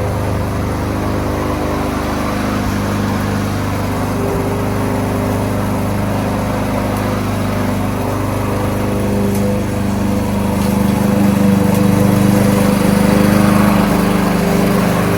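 Kohler XT-675 single-cylinder engine on a Yardworks push lawn mower running steadily, a little louder about two-thirds of the way through.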